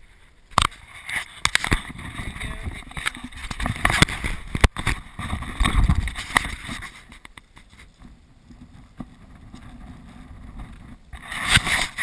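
Strong gusting wind buffeting the GoPro's microphone, a low rumble that swells and fades, with a few sharp knocks from the camera being handled.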